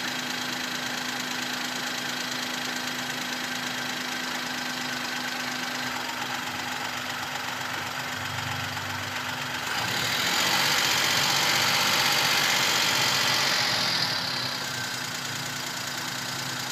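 Suzuki Alto engine idling steadily while its cooling system is rinsed with water. About ten seconds in, a louder steady hiss joins it for roughly five seconds, then fades.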